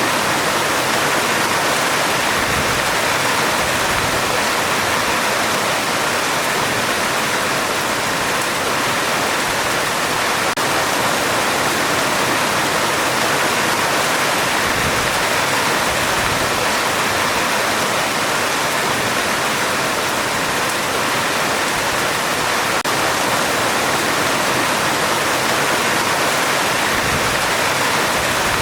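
Heavy rain on a metal roof, a steady dense hiss with no thunder and no break.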